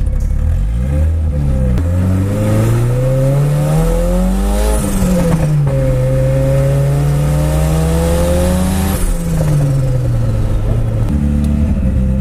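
Turbocharged Ford 2.3-litre four-cylinder, fitted with a Holset HE351 diesel turbo in a Datsun 240Z, heard from inside the cabin. The revs climb, drop sharply at an upshift about five seconds in, and climb again. The engine winds down from about nine seconds and settles to idle near the end. A high turbo whistle rises at the top of each pull and fades as the revs fall.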